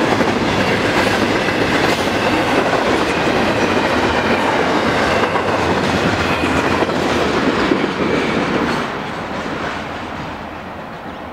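Wheels of a double-stack container freight train rolling over the rails as the last cars pass, then the noise fading away as the end of the train draws off, from about eight seconds in.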